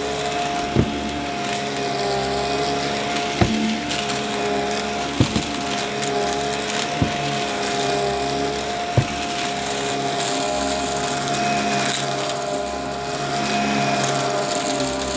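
Upright vacuum cleaner running steadily with a constant motor hum, with about five sharp crunching cracks spread through as it sucks up debris.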